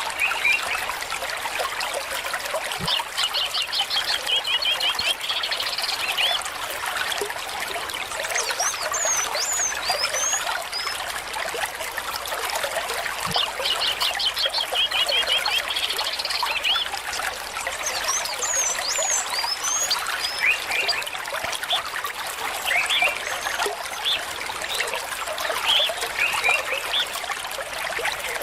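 Small stream trickling steadily, with birds calling over it: a rapid trill twice, about ten seconds apart, and scattered short high chirps.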